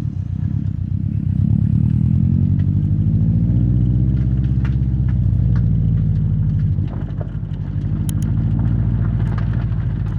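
Exhaust of a 2016 Subaru WRX STI's turbocharged EJ257 boxer four, picked up close to the tailpipes while driving. The engine note climbs slowly over the first few seconds, holds steady, dips about seven seconds in, then climbs again, with scattered light ticks over it.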